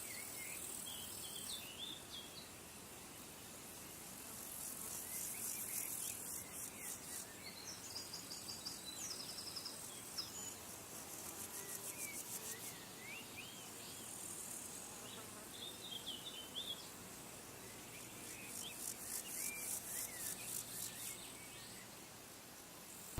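Meadow insects trilling high and fast in pulsing bursts a few seconds long that come and go, with scattered short bird chirps between them.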